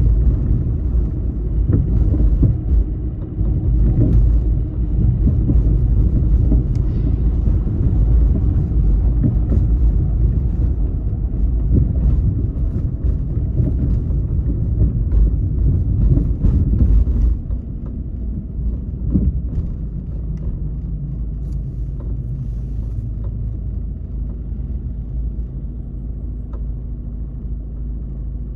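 Car driving in city traffic: a continuous low rumble of engine and road noise. About two-thirds of the way through it drops to a quieter, steadier engine hum.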